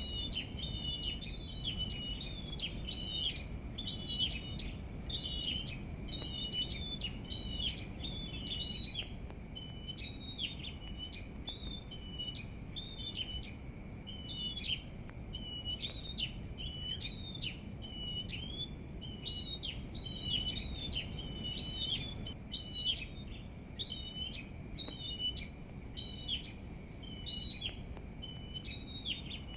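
Small birds chirping and twittering continuously in quick short notes, over a steady low background rumble.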